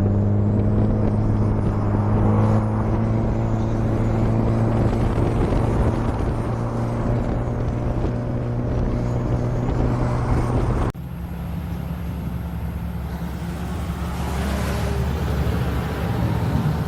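Steady low engine drone with a constant pitch. It cuts off abruptly about eleven seconds in and is replaced by a different, lower steady hum.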